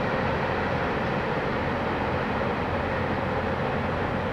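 Freight cars of a mixed freight train rolling along the track, a steady rumble and rail noise as the tail end of the train passes.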